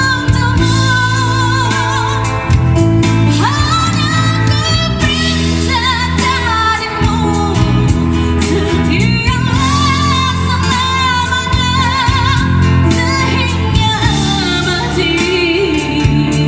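A woman singing a slow pop ballad with vibrato over live band accompaniment of sustained chords and bass.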